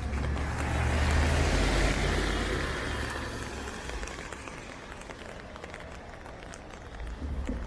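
A car passing on a wet street: tyre hiss and engine rumble swell in, peak about two seconds in, then fade away, over rain pattering and ticking around.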